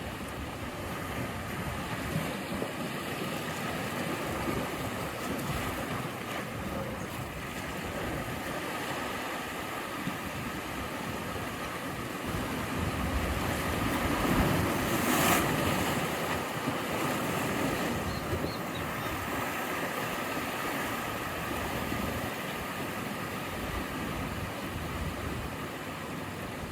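Ocean surf: a steady wash of waves, swelling to a louder breaking wave with a sharp crash a little past halfway.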